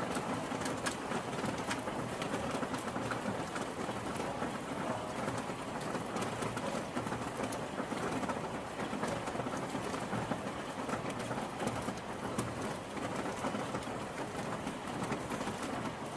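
Steady rain, with many individual drops ticking sharply against a close surface over an even hiss.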